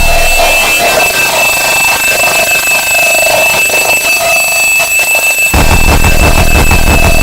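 Harsh electronic noise music: a steady shrill tone over a wavering, alarm-like pulsing tone. The heavy low kick-drum layer drops out and slams back in about five and a half seconds in.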